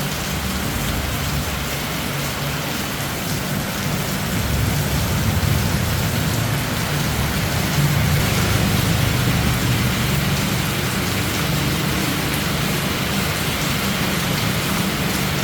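Steady rushing noise with a low hum beneath it, a little louder from about four seconds in.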